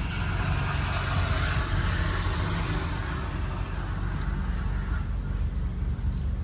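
A motor vehicle going by: a rushing hiss that swells and fades away about five seconds in, over a steady low rumble.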